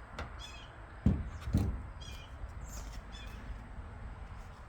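Two dull thumps about half a second apart, a second in, with crows cawing a few times.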